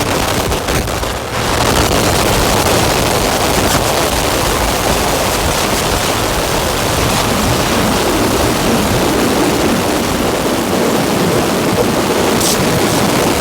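Dense, distorted noise drone from a Make Noise modular synthesizer (Strega, Maths, Morphagene) run through Death By Audio Evil Filter and Absolute Destruction pedals: a steady, loud wash of noise from deep rumble to high hiss, with a brief dip about a second in.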